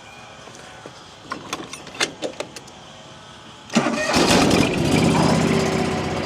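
A few light clicks and knocks, then about four seconds in a John Deere 445 garden tractor's V-twin engine starts abruptly and settles into a steady run.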